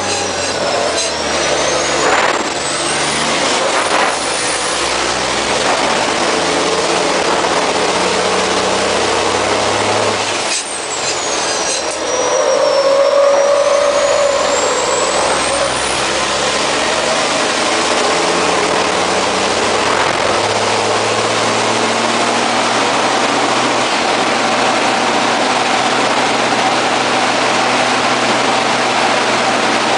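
MAN race truck's diesel engine heard from inside the cab, pulling hard and changing pitch as it goes through the gears. Short air hisses come at the start and about ten seconds in, and a high whistle falls and rises around the middle.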